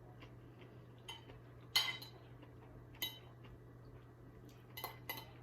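Metal fork clinking against a dish while eating: about five short clinks, the loudest about two seconds in, two close together near the end.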